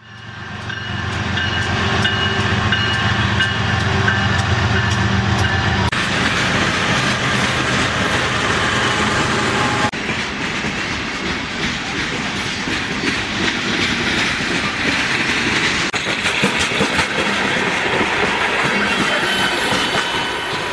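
Freight train cars rolling along the rails, wheels clattering on the track with a continuous metallic rumble. A steady low hum with a few held high tones runs for the first six seconds, and the sound changes abruptly about six and ten seconds in.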